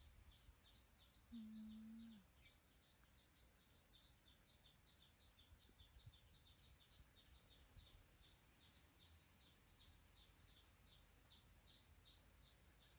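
Near silence, with a faint bird call repeated in an even series of short high chirps, about three or four a second. A brief low hum sounds about a second and a half in.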